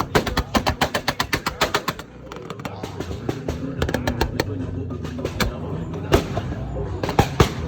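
Subaru exhaust crackling with a rapid string of loud pops for about two seconds, then the engine running with a steady note and a few single sharp pops near the end.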